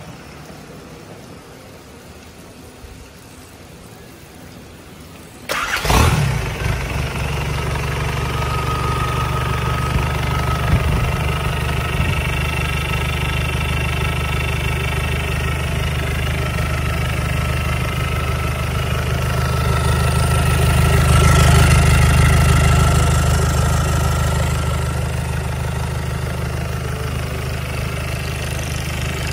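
Isuzu 4JB1 four-cylinder diesel engine starting suddenly about five seconds in, then running steadily. It swells louder for a few seconds about two-thirds of the way through as it is revved, then settles back to a steady run.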